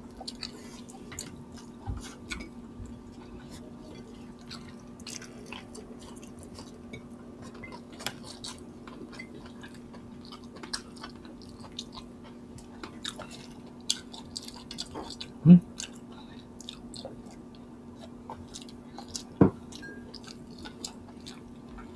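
Close-miked chewing of chicken and rice eaten by hand, with many small wet mouth clicks and smacks. Two brief louder mouth sounds stand out, about two-thirds of the way in and again a few seconds later.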